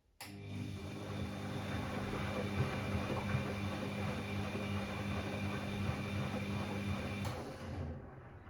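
Bosch Classixx 6 washing machine's drum motor running a wash tumble during the cooldown stage of a 90 °C cottons cycle. A steady hum with a wash of noise starts suddenly and cuts off with a click about seven seconds in, then fades away.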